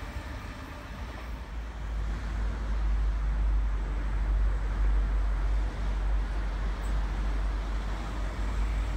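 Sydney Trains Waratah electric train approaching along the line: a steady low rumble that grows louder about two seconds in.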